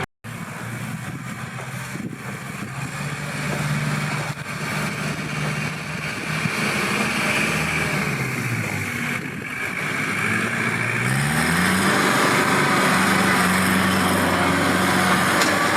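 Kubota L5018SP tractor's diesel engine running under load. Its pitch dips about halfway through, then rises again and holds higher to the end. There is a brief dropout right at the start.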